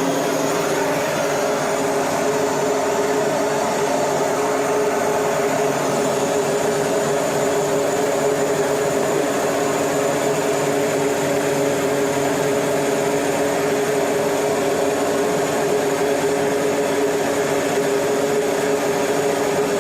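Engine running steadily at a constant speed, a loud even drone with a fixed pitch and no change throughout.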